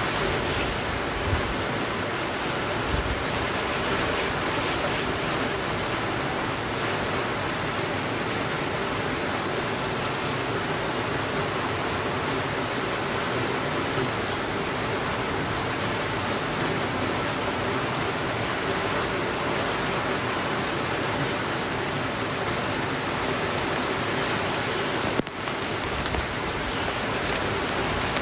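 Steady, even rainfall, a dense hiss of drops, with a few faint clicks near the end.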